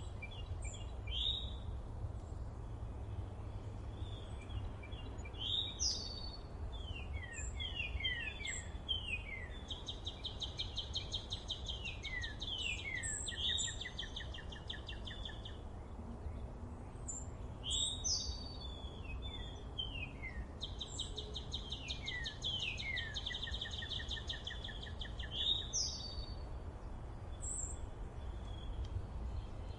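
Several wild birds singing in a forest: long, rapid trills repeated over and over, runs of quick descending whistled notes, and short high chirps, over a steady low rumble.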